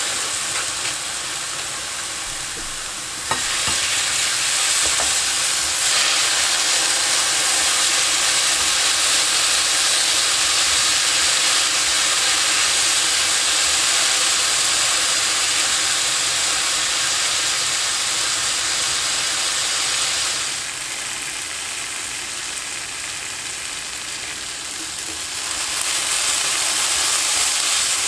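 Julienned potato strips sizzling as they are stir-fried in a pan. The sizzle grows louder a few seconds in, eases off about two-thirds of the way through and picks up again near the end.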